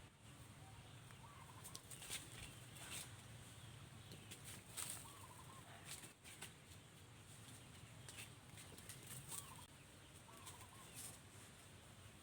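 Faint short animal calls, a few wavering chirps scattered through, with occasional light clicks and taps over a low steady hum.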